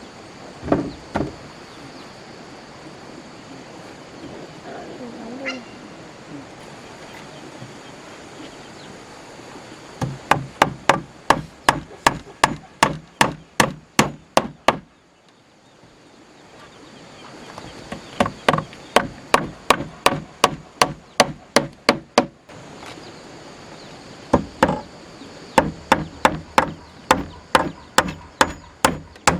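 A tool striking wood over and over, about three blows a second, in three runs with short pauses between them, as in chopping or hammering.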